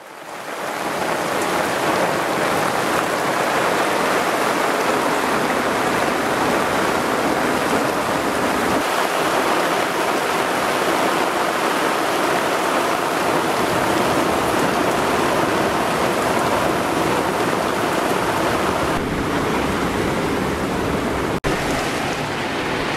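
Heavy rain pouring down on the sea and the boat, a steady dense hiss that fades in over the first second.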